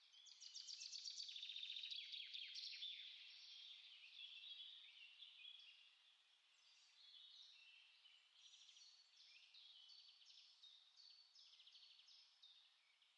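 Small songbirds singing: a fast trill in the first few seconds, then a run of short, varied notes at about two a second.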